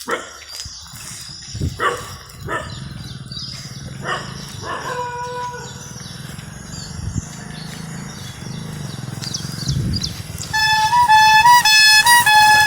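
A low engine rumble passes by, then from about ten seconds in a loud electronic tune plays: a simple melody of high beeping notes stepping up and down and repeating.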